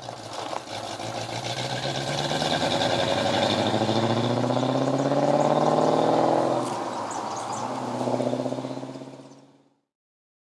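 A car engine accelerating, its pitch climbing steadily for several seconds, then dropping and rising briefly again before fading out.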